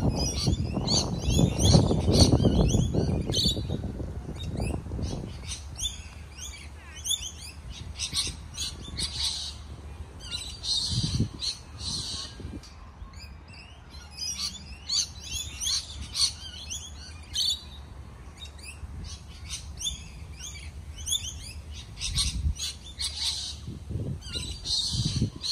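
Many small birds chirping and calling in quick, overlapping trills throughout. A low rumble sits under them for the first five seconds or so.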